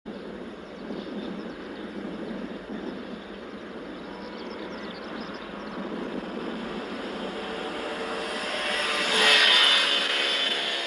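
Kawasaki C-2 transport's twin turbofan jet engines as the aircraft passes, growing louder to a peak about nine and a half seconds in. After the peak the engine tones fall in pitch as it goes by.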